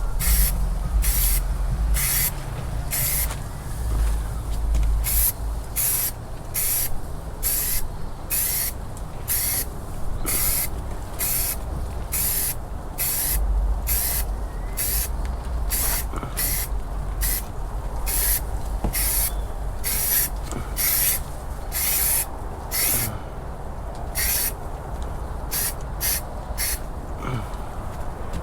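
Primer being sprayed onto a boat hull in short, repeated hissing bursts, roughly one a second.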